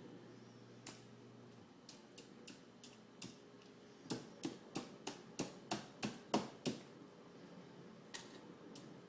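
Hard taps and clicks of toy trucks and a bottle brush knocking while being washed in water: a few scattered ones, then a quick run of about eight, roughly three a second, starting about four seconds in, and a few more near the end.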